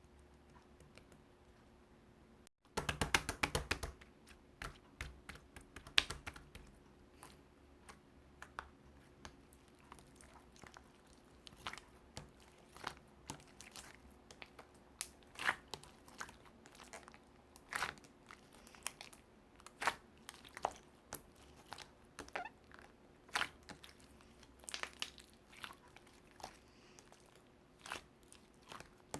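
Irregular small clicks and crackles, with a dense flurry of them about three seconds in, over a faint steady hum.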